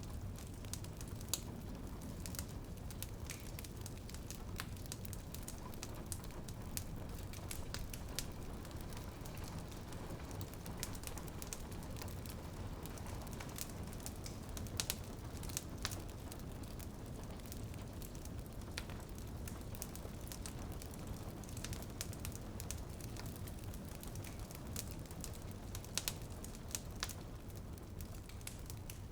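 Wood fire in a fireplace crackling, with frequent short sharp pops over a steady low rumble, and rain dripping on a window.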